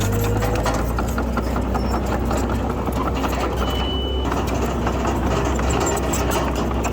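Komatsu D31PX bulldozer's diesel engine running steadily under work, with a constant rattle of clicks and one short high beep about four seconds in.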